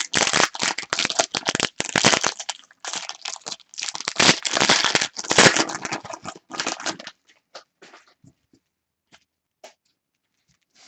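Plastic-foil trading card pack wrapper crinkling and being torn open, dense rustling for about seven seconds, then a few faint clicks before it goes quiet.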